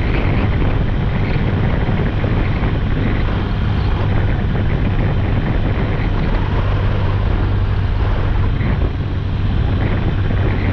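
Motorcycle engine running steadily at cruising speed, a constant low hum, with wind rushing over the microphone.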